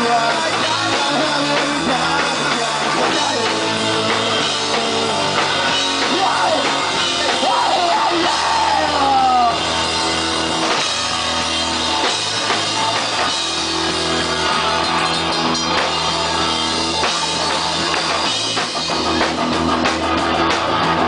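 Pop-punk trio playing live: electric guitar, bass and drum kit, loud and steady, with notes sliding in pitch about halfway through.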